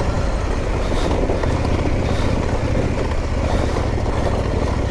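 Off-road motorcycle engine running steadily under throttle, with rumble and wind noise on the microphone.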